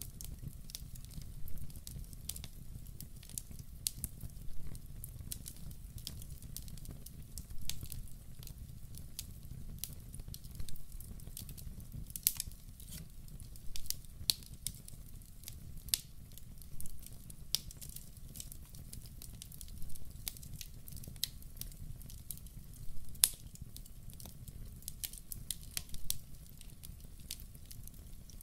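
Wood fire burning in a fireplace: a steady low rumble of flames under frequent sharp crackles and pops from the burning logs, with one especially loud pop late on.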